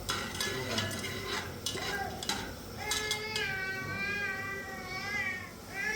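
Light clinks and taps like dishes or cutlery for the first few seconds, then a long wavering cry lasting close to three seconds, and another cry starting near the end.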